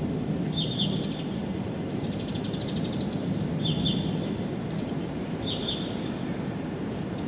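A songbird repeating a short chirping phrase three times, with a brief rapid trill in between, over a steady low background rumble.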